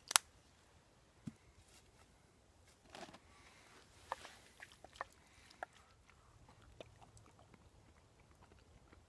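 One sharp click just after the start, then scattered light clicks and scrapes of a spoon in a metal canteen cup, with chewing, as hot sauce is stirred into the pasta and tasted.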